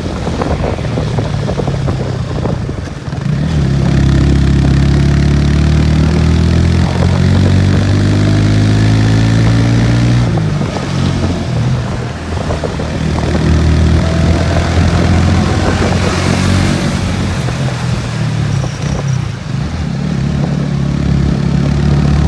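Motorcycle engines with loud aftermarket exhausts running under load on a climb, the engine note rising several times as the bikes accelerate, with wind rushing over the microphone.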